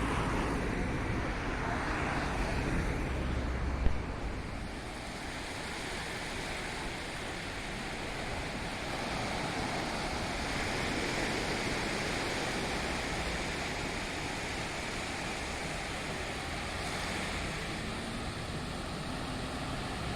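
Steady rushing noise of a moving vehicle, with one sharp knock about four seconds in.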